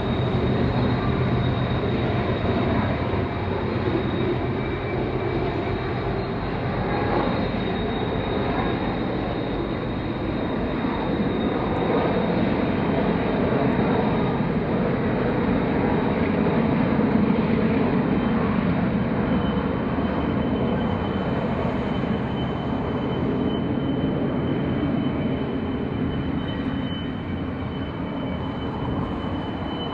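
A train running by: a steady, continuous rumble and roar with no breaks, with a thin high steady tone over it that drops a little lower about two-thirds of the way through.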